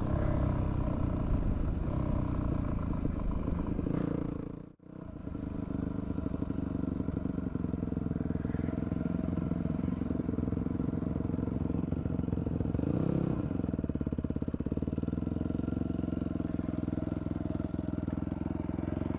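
A 2006 Yamaha WR250F's single-cylinder four-stroke engine running as the dirt bike is ridden. The engine sound dips out briefly about five seconds in, then comes back and carries on steadily.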